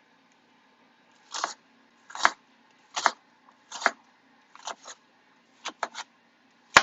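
A kitchen knife chopping an onion on a cutting board: sharp knocks about once a second at first, then quicker pairs and triples of strokes in the last two seconds.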